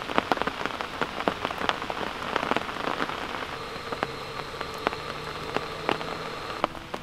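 Rain falling steadily onto a lake, with many sharp separate drop hits close by.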